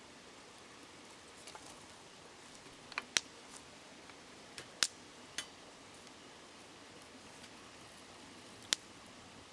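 Wood campfire crackling: a handful of sharp, isolated pops, the loudest about three seconds in, about five seconds in and near the end, over the steady hush of a flowing river.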